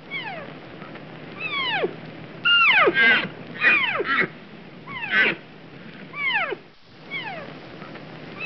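Deer calling: about ten high calls in quick succession, each sliding steeply down in pitch, some overlapping.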